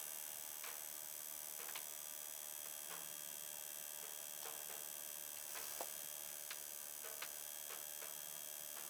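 Faint clicking of a Chinese diesel heater's fuel-dosing pump, a tick about every second over a steady hiss, as the pump pulses fuel during the preheat stage of start-up.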